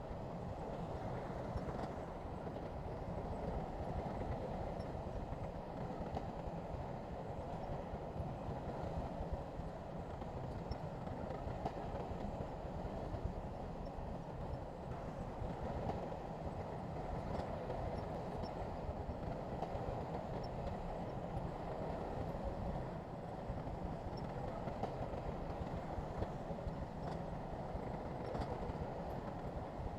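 Heavy diesel earthmoving equipment running steadily, a continuous engine sound with faint scattered clicks and clanks.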